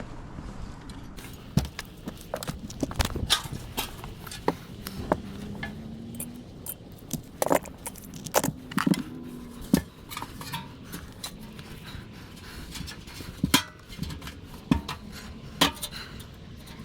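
Irregular metallic clinks, knocks and clatter of hand tools and small metal furnace parts being handled and set down, some sharp and loud.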